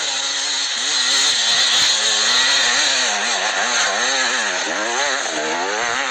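Two-stroke enduro motorcycle engine revving up and down under throttle, its pitch rising and falling about once a second as the rider works the bike uphill.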